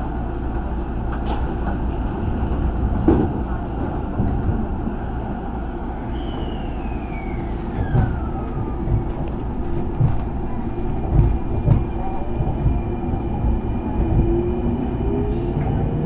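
Electric commuter train on the Hanshin Main Line pulling away from a station and gathering speed, heard from inside the car. There is a steady low rumble, with a tone that falls in pitch about six seconds in. Wheels knock over rail joints from about eight seconds on, and a motor whine rises in pitch near the end.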